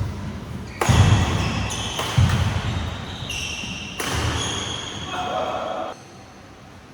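Badminton rally in a sports hall: sharp racket hits on the shuttlecock about a second apart, shoes squeaking on the court floor and heavy footfalls, all echoing. It stops abruptly near the end.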